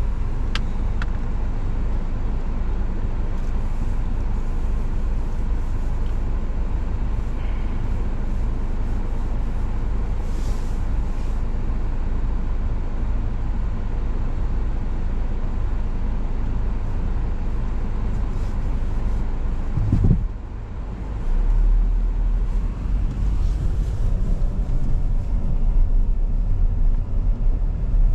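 A car driving, with a steady low rumble of road and engine noise. There is a single thump about two-thirds of the way through, after which the low rumble is heavier.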